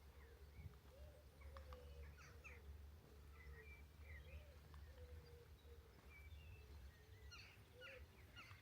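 Faint birdsong: several small birds chirping and trilling in short high calls throughout, over a low steady rumble of outdoor background.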